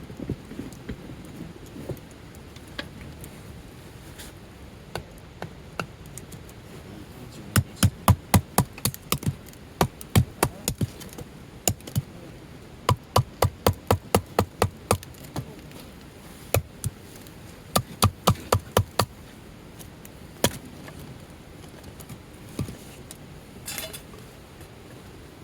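Batoning firewood: a wooden baton knocking on the spine of a knife driven into a log. The strikes come in quick runs of several a second, separated by pauses and a few single knocks.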